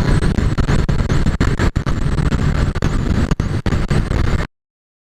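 Loud rumble of a moving vehicle with wind noise, broken by brief dropouts, cutting off abruptly to silence about four and a half seconds in.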